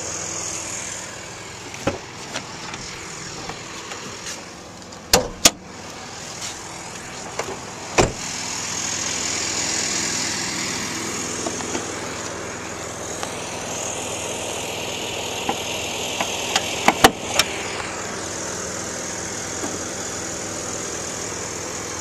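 A vehicle engine idling steadily, broken by a few sharp clicks and clunks: a close pair about five seconds in and another pair past the middle, from the truck's hood being released, unlatched and raised.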